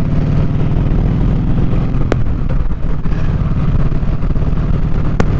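Kawasaki Vulcan Vaquero's V-twin engine running steadily while riding, through an exhaust with its baffles taken out. Two short clicks, about two seconds in and near the end.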